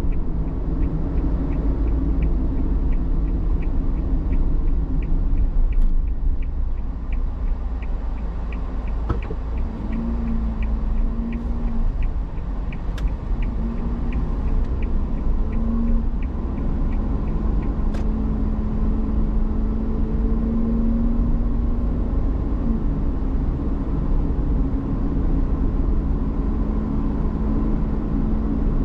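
Low, steady rumble of a vehicle driving on the road. A rapid light ticking, about three a second, runs through the first half, and a steady hum comes in about ten seconds in.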